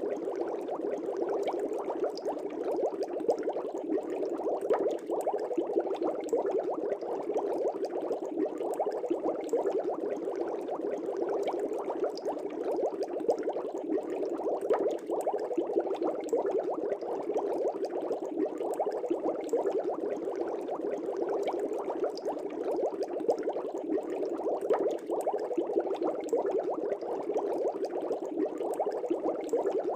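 Fish tank bubbles: a steady, dense stream of bubbles rising and breaking in aquarium water, a continuous low bubbling with fine crackle.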